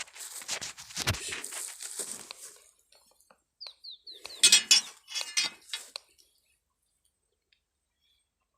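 Crackling and rustling of leaves and twigs being handled, with a brief run of four quick falling bird chirps in the middle; the sound cuts out about six seconds in.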